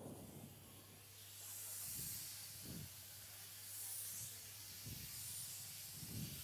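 Stage fog machine hissing steadily as it blows a jet of fog, the hiss starting sharply at the beginning, over a low steady hum.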